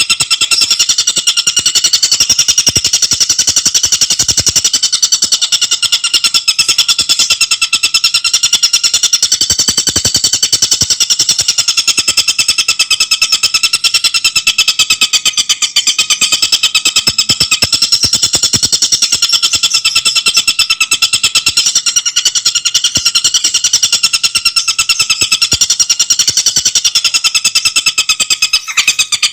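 Tengkek buto bird calling without pause, a loud, very fast chatter of notes run together at an almost even pitch.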